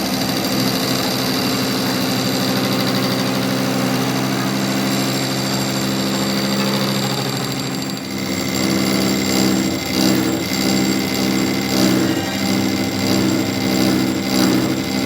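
An engine or motor-driven machine running steadily. About eight seconds in, it turns uneven, with a pulsing rise and fall and repeated knocks.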